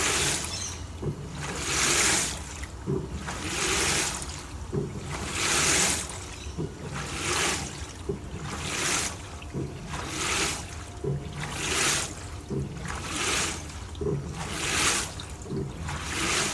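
LG TurboDrum top-load washing machine agitating a full load of bedding in water: a rhythmic swish of sloshing water about every one and a half to two seconds, with a short low knock between swishes as the drive reverses direction.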